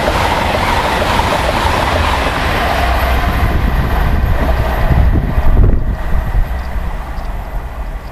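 LNER Class 801 Azuma electric multiple unit passing at speed: a loud rush of wheels on rail and air from the coaches. It fades away over about six seconds as the train recedes, leaving a low rumble.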